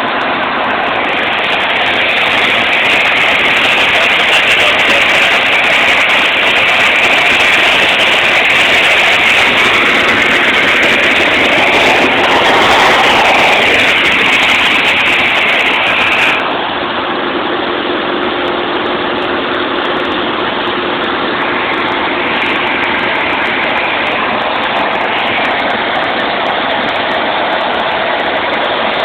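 Cessna 150's four-cylinder piston engine and propeller running steadily, dropping slightly in level about 16 seconds in.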